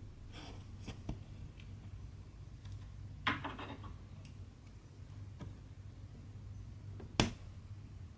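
Scattered small clicks and short crackly rustles from handling cross-stitch materials, over a steady low hum. Brief rustles come about half a second in and just after 3 seconds, and one sharp click comes about 7 seconds in.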